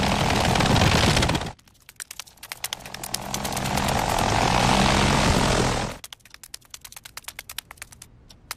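An engine-like, propeller-style drone is heard twice. The first cuts off about a second and a half in; the second swells from about two and a half seconds and stops sharply at six. Faint rapid clicks fill the gaps.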